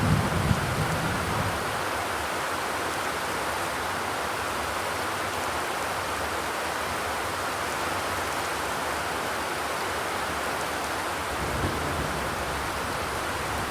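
Steady rain on a zinc sheet roof, an even patter with a low rumble swelling under it at the start and again near the end.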